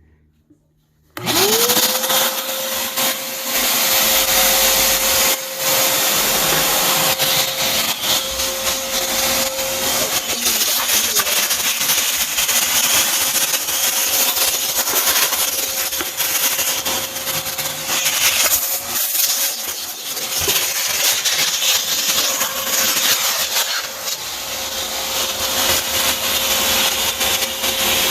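Vacuum cleaner switched on about a second in: the motor whines up to speed, then runs steadily with a held motor tone over loud rushing suction noise whose level wavers up and down.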